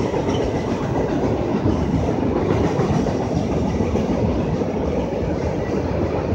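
Autorack freight cars rolling steadily across a steel girder railway bridge: continuous, even wheel-on-rail noise.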